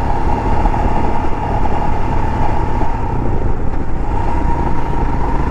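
Motorcycle running steadily under way, with a continuous low rumble of wind and road noise and a steady whine over it.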